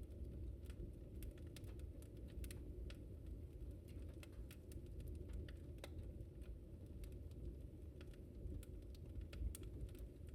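Wood fire in a fireplace crackling: irregular sharp snaps and pops, several a second, over a steady low noise from the burning fire.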